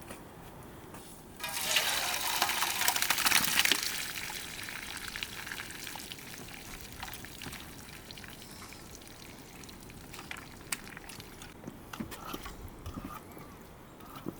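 Liquid being poured in a loud rush lasting a couple of seconds, then fading to a quieter trickle with scattered small clicks.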